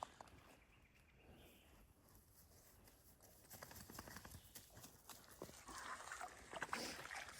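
Footsteps on a woodland trail, faint at first and louder and more frequent from about halfway.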